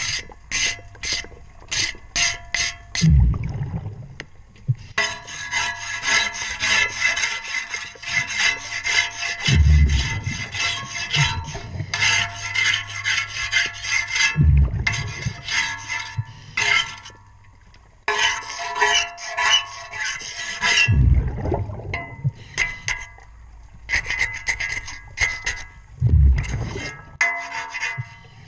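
Rapid scraping strokes of a cleaning tool against a ship's propeller heard underwater, in long runs with short pauses. A low rush of diver's exhaled regulator bubbles comes about every five to six seconds.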